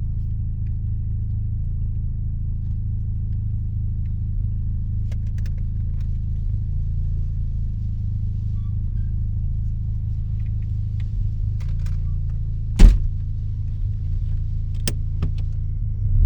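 Mazda RX-7's rotary engine running steadily at what sounds like idle through an RE Amemiya Dolphin Tail aftermarket exhaust, a deep, even low note heard from inside the cabin. There is one sharp knock about two-thirds of the way through and a smaller click two seconds later.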